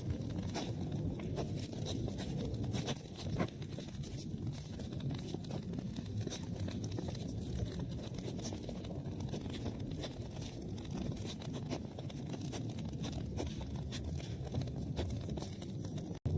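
Wood fire in a fireplace crackling, with frequent small pops and snaps over a low steady rumble of flames.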